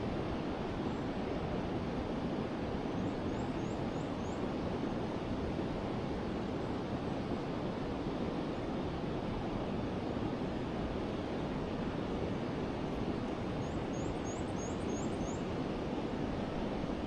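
Forest river water rushing steadily. A small bird gives two short runs of faint, high, quick chirps, about five notes each, a few seconds in and again near the end.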